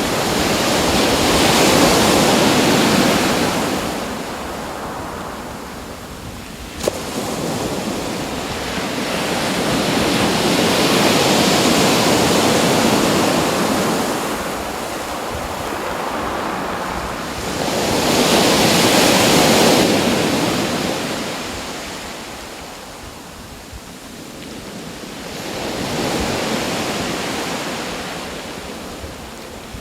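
Waves breaking on a shore, the wash swelling and falling back about every eight seconds, with one short click about seven seconds in.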